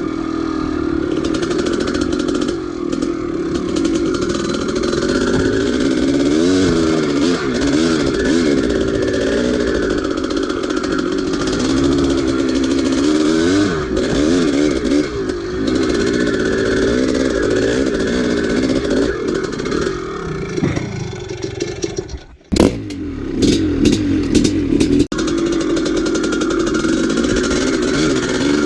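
1983 Maico 490's two-stroke single-cylinder engine running under load while being ridden, its pitch rising and falling with the throttle. About 22 seconds in it drops away briefly, there are a few sharp knocks, and then it runs on.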